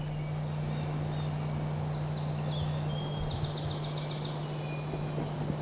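Songbirds singing faintly in spring woodland: a few curving whistled notes, then a quick trill of repeated notes a little after three seconds in, over a steady low hum.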